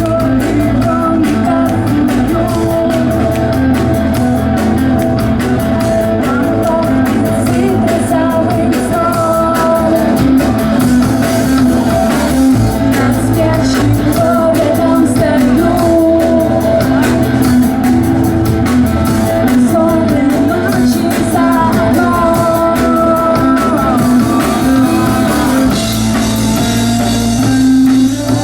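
Rock band playing live in a club, with a singer over guitars, bass and drums.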